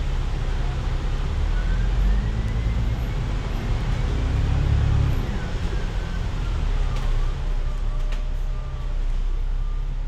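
Bus engine and drivetrain running with a low rumble, heard from inside the bus, with a faint whine that rises and falls in pitch over a few seconds.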